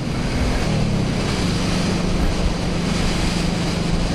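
Suzuki Boulevard C90BT's V-twin engine running while the motorcycle is ridden, with a steady rush of noise over it. The engine note becomes an even drone about a second and a half in.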